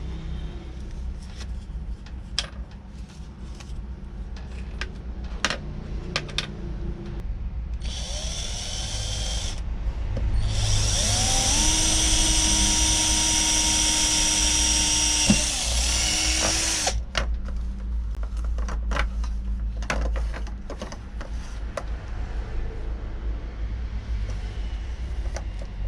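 Small electric power-tool motor run in two bursts. A short one comes about eight seconds in, then a longer one of about six seconds that spins up, holds a steady whine and winds down. Clicks and knocks of handling come before and after.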